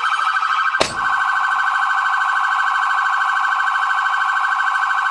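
Police car siren sounding continuously with a fast, rapidly cycling warble. A sharp click comes about a second in.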